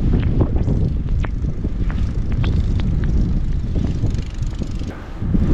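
Blizzard wind buffeting the microphone as a heavy, rumbling roar, with short sharp scrapes and crunches now and then.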